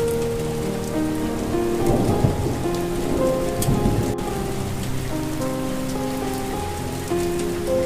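Steady rain falling, under a slow melody of long held notes. About two seconds in, a low rumble of thunder swells and fades.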